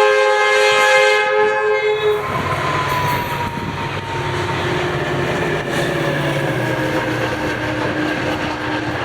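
FrontRunner commuter train's air horn sounding a loud multi-note chord as part of a crossing horn sequence, cutting off about two seconds in. Then the steady rumble and rail clatter of the train rolling past, with a faint tone that slowly falls in pitch.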